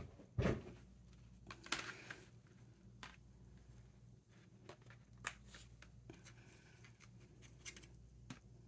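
Cutting die and freshly die-cut thick watercolor card being handled and the pieces freed. Two sharp knocks at the start, then scattered light clicks and paper rustles.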